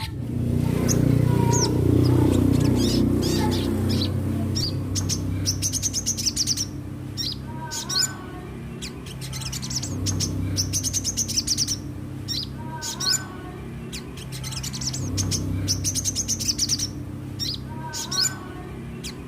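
Crimson sunbird (sogon) singing: sharp high chirps and fast, buzzy twittering trills repeated in short phrases about every five seconds, over a low steady rumble.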